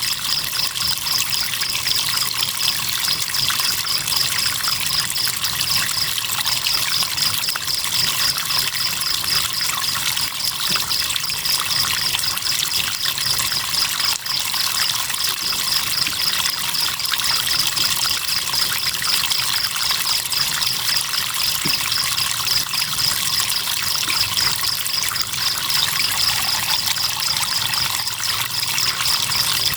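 Crickets chirping in a steady high pulsing trill, several pulses a second, over the continuous trickle and rush of river water.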